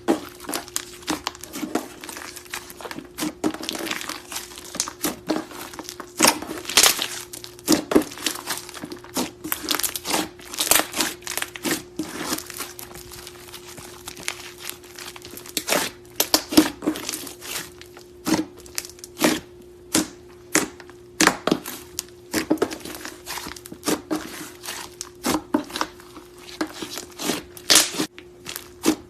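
Hands squeezing, stretching and poking clay slime, giving irregular sticky crackles and pops, some sharp and loud, others quick and clustered.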